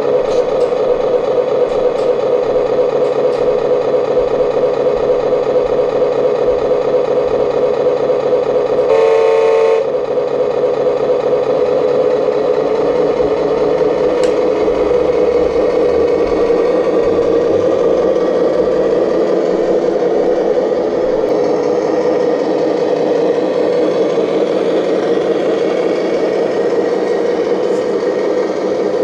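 Radio-controlled model excavator working, its motors whining steadily with some clatter. A brief horn-like tone sounds about nine seconds in.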